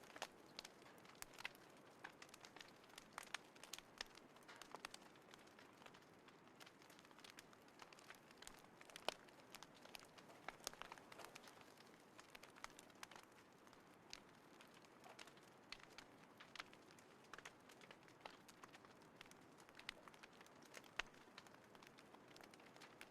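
Small campfire crackling faintly: irregular sharp snaps and pops over a low steady hiss.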